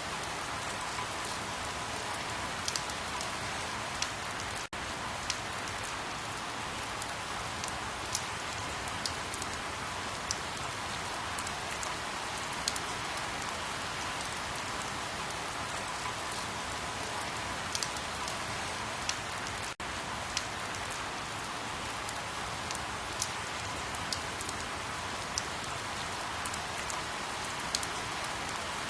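Steady rain falling, an even hiss with scattered sharper drop ticks pattering close by. The sound cuts out for an instant twice.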